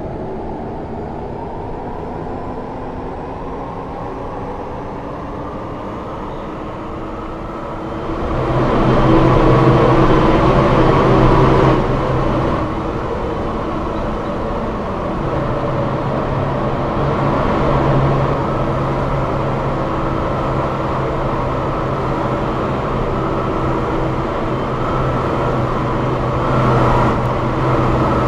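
Legacy MRT-3 Tatra light rail train running, heard from on board: an electric motor whine rises steadily in pitch as it picks up speed. About eight seconds in the running noise grows much louder, with a steady low hum, and stays loud.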